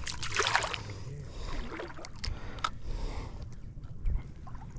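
Water splashing and sloshing at the side of a fishing kayak, loudest in the first second, with a few light knocks and clicks from handling on the hull.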